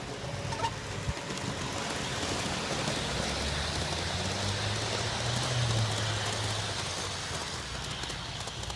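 G-scale model train running past at close range: the electric motor's low hum and the wheels' rumble on the track build up, peak about midway and fade.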